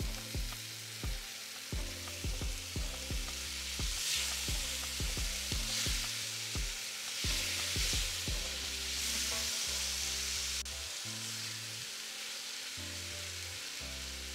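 Chopped tomatoes sizzling in hot oil with onions and spices in a nonstick pan, stirred with a spatula that scrapes and taps against the pan. The taps are frequent over the first half and thin out later, leaving a steady sizzle.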